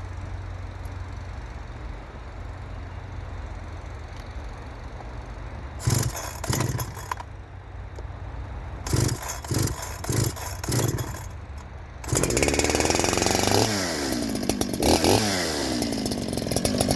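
Farmertec G372XT two-stroke chainsaw with a ported cylinder being pull-started: a few short bursts from the pulls. About twelve seconds in it catches and keeps running, revved up and down a couple of times.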